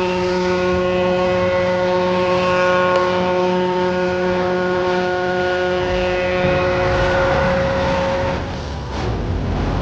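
Ferry's horn sounding one long, steady, low blast that dies away about seven to eight seconds in, leaving a low rumble.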